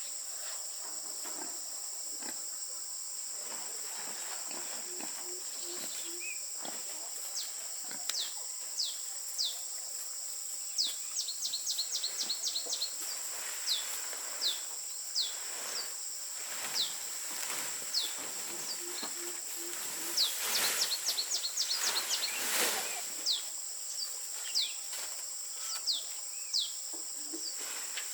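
Outdoor rural ambience: insects droning steadily at a high pitch, with birds repeatedly giving short falling chirps and a couple of quick trilled runs. A low four-note call sounds twice.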